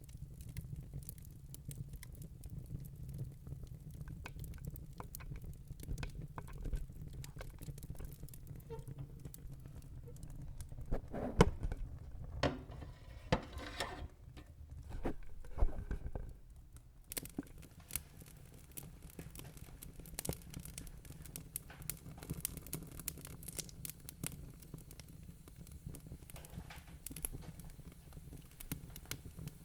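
Wood burning in a fireplace: steady low rumble of the fire with scattered crackles and pops. A louder spell of sharper pops and hissing comes about halfway through, then it settles back to light crackling.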